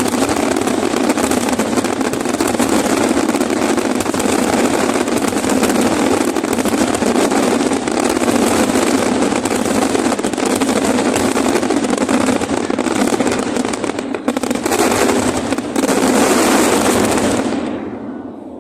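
Fireworks finale: a dense, unbroken barrage of rapid bangs and crackling that dies away shortly before the end.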